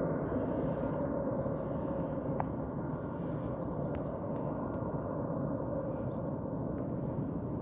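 Airbus A320 jet engines running, a steady low rumble with a faint hum through it, and a few faint short high chirps on top.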